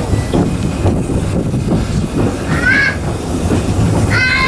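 Narrow-gauge heritage train running with a steady low rumble. Two short high-pitched squeals sound over it, the second and louder one about four seconds in.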